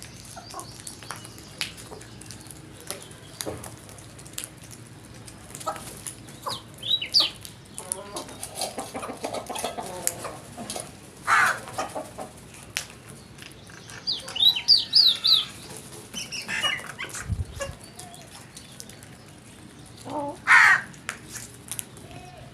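Birds calling in short harsh bursts, several loud calls in clusters, with small clicks and rustling in between.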